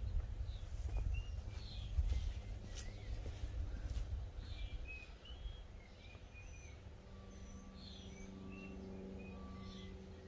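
Birds chirping over a fluctuating low rumble of wind on the microphone. About seven seconds in, the rumble drops away and a steady low hum takes over.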